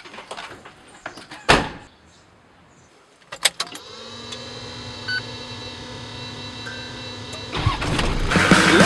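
A loud thump, then a Toyota Land Cruiser 70's engine cranks and starts about three and a half seconds in and settles into a steady idle. Music rises in near the end.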